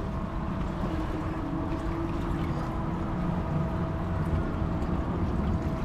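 A motorboat engine running steadily, as a low rumble with a constant hum, over wind and water noise.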